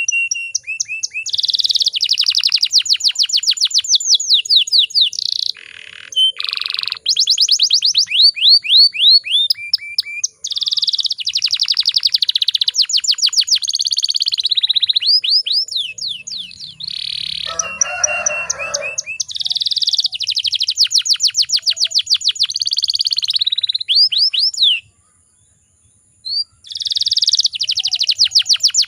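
Domestic canary singing long, fast rolling trills of repeated down-sweeping notes in quick phrases. A brief harsh noise comes about 18 seconds in, and the song breaks off for about a second and a half about 25 seconds in.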